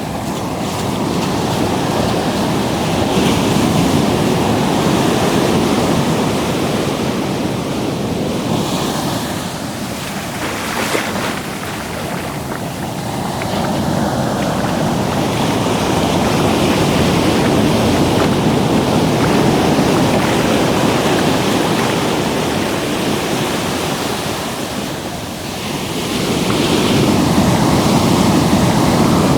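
Ocean surf breaking and washing in at the shoreline, a steady rushing that swells and eases in slow surges, with a dip about 25 seconds in, and some wind on the microphone.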